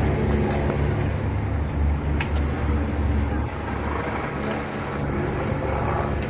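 A motor vehicle engine running close by, a steady low rumble, with street traffic behind it.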